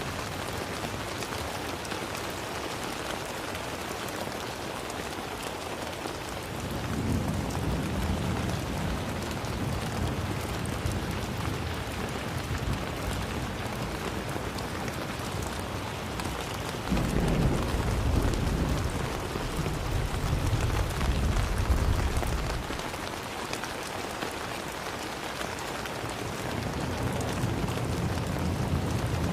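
Steady rain hissing, with low rolling thunder: a rumble swells about a quarter of the way in, a louder one comes past the middle, and another builds near the end.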